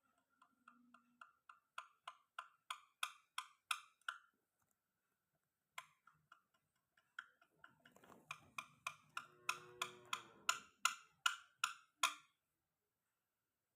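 Sharp, hollow clicks repeated about three times a second in two runs, each run growing louder, the second starting about six seconds in.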